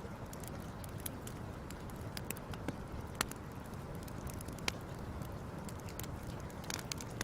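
Wood fire crackling: irregular small pops and snaps over a steady low rumble, with a couple of louder pops about three seconds in and near the five-second mark.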